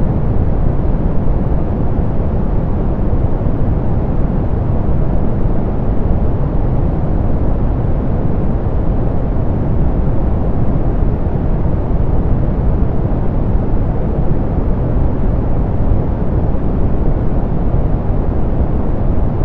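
Steady, softened pink noise: an even, unchanging hiss weighted toward the low end, with the highs rolled off.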